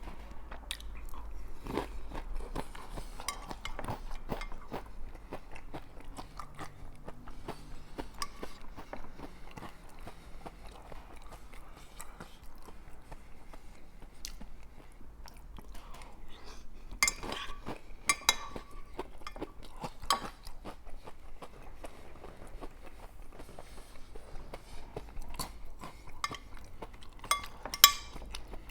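Close-up chewing and crunching of corn chips (lime and salt Fritos) mixed with picadillo stew, with a steady stream of small crunches. A few louder sharp clicks stand out about two-thirds of the way through and again near the end.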